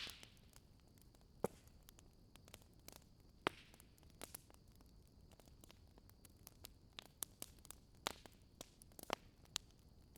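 Wood bonfire crackling: irregular sharp pops and snaps over a faint steady hiss, a few louder pops standing out.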